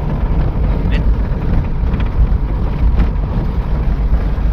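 Tata truck driving, its engine and road noise making a steady low rumble, with wind buffeting the microphone and a few faint ticks about a second apart.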